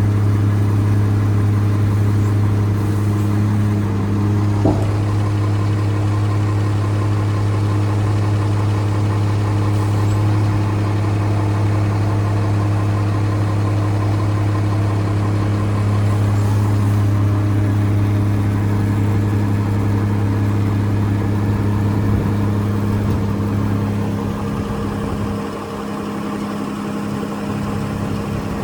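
Scania P114 380 truck's 11-litre straight-six diesel engine idling steadily. There is a brief click about five seconds in and a slight drop in level near the end.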